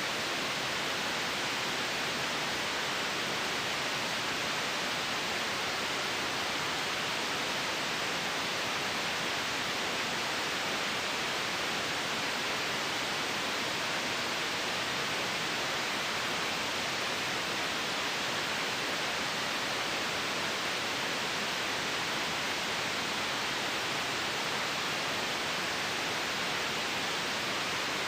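Steady synthetic white noise for sleep: an even, unchanging hiss, heaviest in the upper middle range.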